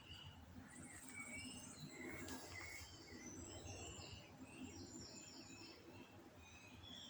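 Faint garden birdsong: several birds chirping and trilling, with short rapid trills and repeated high notes, over a low background hum.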